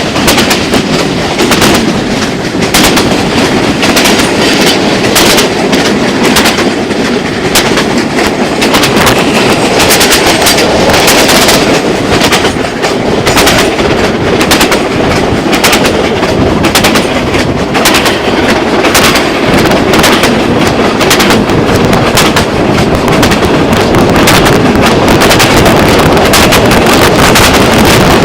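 Passenger train running on the rails: a loud, steady rumble with rapid, irregular clattering and clacking of the wheels and carriages.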